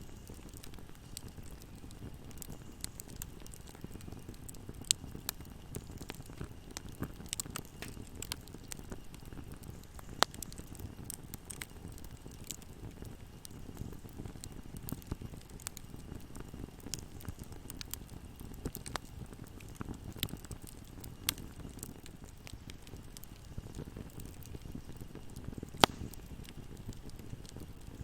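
Wood fire burning in a fireplace: a steady low rumble of flames with constant scattered crackles and a few sharper pops, the loudest one near the end.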